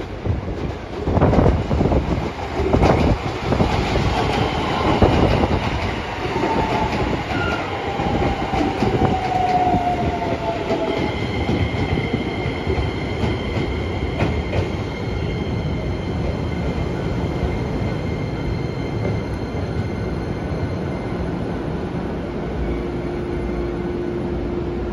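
Keisei 3000-series electric commuter train pulling into a station. Its wheels clack over the points at first, then a whine falls in pitch as it brakes. Steady high-pitched tones ring on as it slows to a stop, and a lower steady hum starts near the end.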